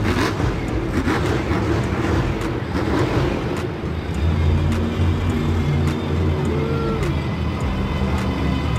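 Monster truck engine running loud with a steady low drone, with some clatter in the first few seconds.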